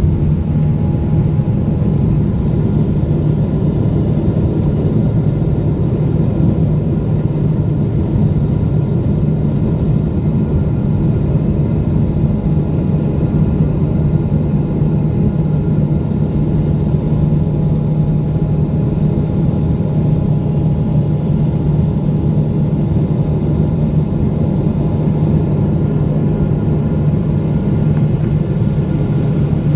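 Boeing 777-200 jet engines running steadily, heard from inside the passenger cabin as a loud, even rumble with a few faint steady whining tones.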